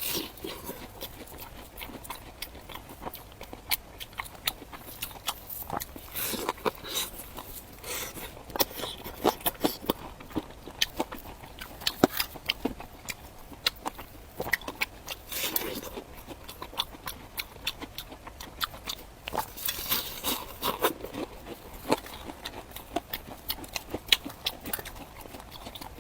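Close-up eating sounds of crunchy fried bread being bitten and chewed: a steady stream of sharp crackles and crunches, with a few louder stretches of crunching.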